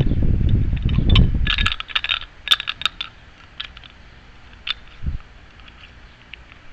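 Small metal parts clinking and rattling against each other, a cluster of bright clinks about two seconds in, after a low rumbling handling noise at the start and followed by a few scattered light clicks.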